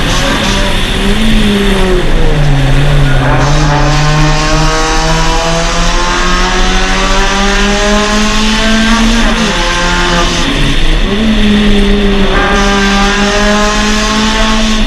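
Suzuki Swift Sport race car's four-cylinder engine heard on board under hard driving. The revs drop sharply about two seconds in, climb steadily for several seconds, fall off again around nine seconds in, then rise and stay high near the end.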